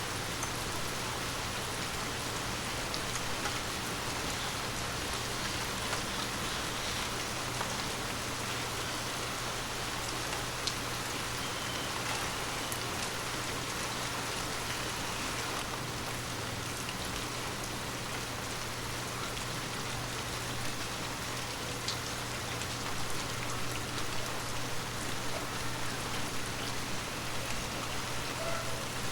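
Steady, soft rain falling on forest leaves, a dense patter with scattered individual drops ticking through it. A faint low hum runs underneath.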